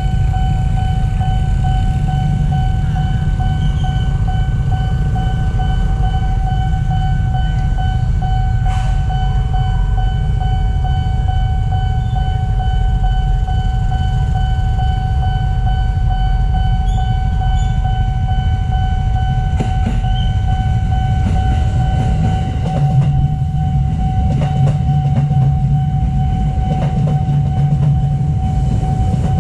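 A level-crossing warning signal sounds one steady tone over a low rumble. About 23 seconds in, a KRL electric commuter train reaches the crossing and runs past close by, its wheels clattering over the rail joints.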